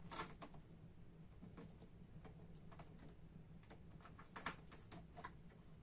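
Near silence: room tone with a faint steady low hum and a few scattered faint clicks.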